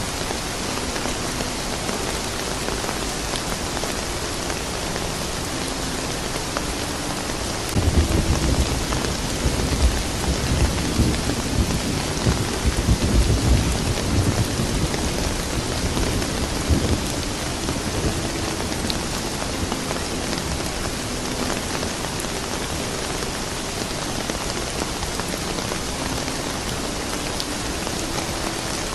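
Steady rain falling, with a roll of thunder that breaks in suddenly about eight seconds in and rumbles low for about ten seconds before fading back under the rain.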